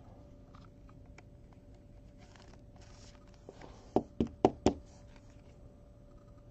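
Trading cards and their packaging being handled on a table: faint rustling and small clicks, then four sharp knocks in quick succession about four seconds in.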